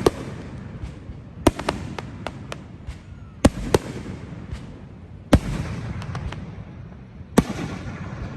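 Fireworks display: sharp bangs of shells bursting, some in quick clusters of two or three, each followed by a low rumbling echo, over a steady background hiss. The loudest bang comes about five seconds in.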